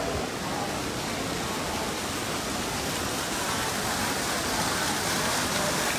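Heavy rain falling steadily, mixed with water from a fountain jet splashing onto a metal grate. The noise grows a little brighter and louder in the second half.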